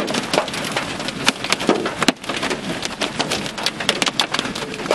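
Heavy rain mixed with hail pelting the vehicle in a severe thunderstorm: a dense, irregular patter of sharp hits over a steady rush of rain.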